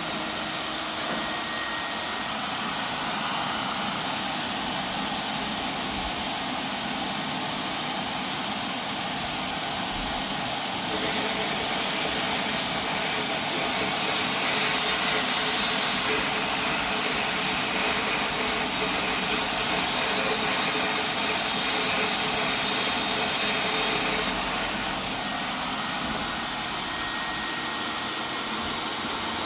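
Aircraft spark plug cleaner blasting with compressed air: a loud, steady hiss starts suddenly and runs for about thirteen seconds before fading, over a steady background noise.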